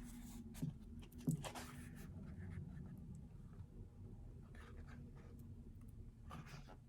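Paper rustling and sliding as a K-pop album's printed contents are handled, with a few brief swishes and a couple of light taps over a faint steady hum.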